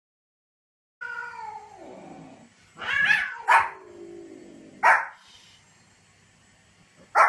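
Small white spitz-type dog barking: four short sharp barks spread over a few seconds, after a drawn-out call falling in pitch near the start.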